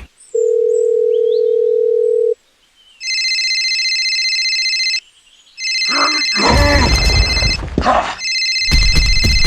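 A single steady electronic tone for about two seconds, then a telephone ringing in three bursts of about two seconds each with short gaps between them. A loud, rough noise sounds under the second and third rings.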